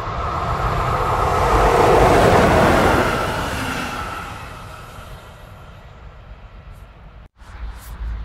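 A DB class 115 electric locomotive hauling a train past at speed: the rolling and wheel noise swells to a peak about two seconds in, then fades away as the train recedes. The sound drops out for a moment about seven seconds in.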